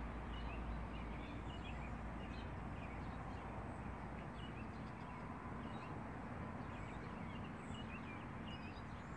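Birds chirping many times in short calls over a steady low background rumble.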